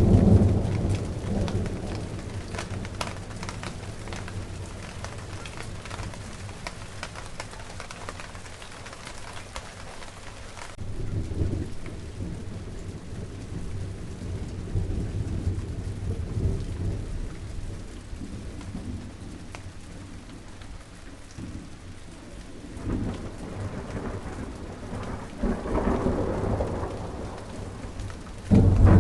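Steady rain falling on a garden, with many small drop taps, under low rolling thunder. One rumble fades over the first seconds, new ones swell about a third of the way in and again later, and a loud one breaks in just before the end.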